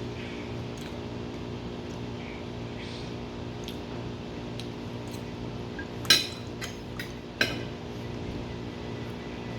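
Cutlery and dishes clinking: about four sharp clinks in quick succession past the middle, the first and the last the loudest, over a steady background hum.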